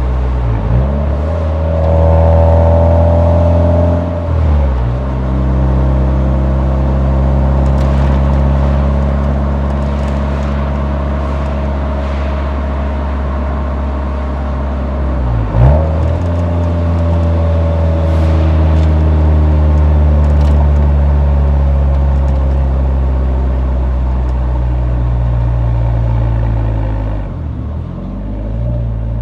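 Exhaust of a Nissan 180SX's SR20 four-cylinder engine heard at the muffler while driving: a steady, loud drone that dips sharply in pitch and climbs back about four times.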